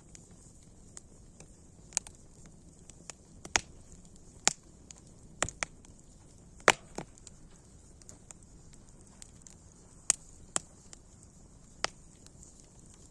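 Campfire crackling: irregular sharp pops and snaps from the burning wood over a faint steady hiss, the loudest pop about seven seconds in.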